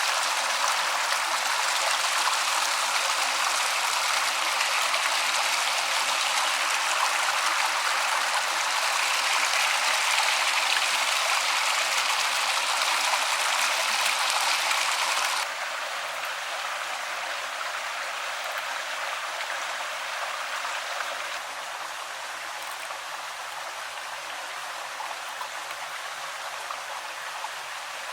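Stream water running, a steady rushing sound with no pitch. It drops suddenly in level about halfway through and again slightly a few seconds later.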